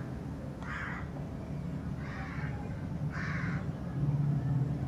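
A bird calling three times, about a second apart, over a faint steady low hum.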